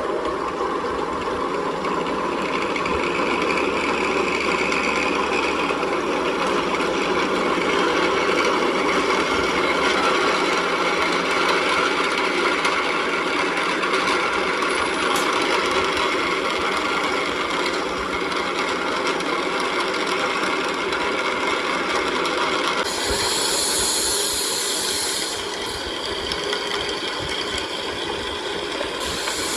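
Steady mechanical noise of workshop machinery running, with rattling. A bright high hiss joins about 23 seconds in and fades back a couple of seconds later.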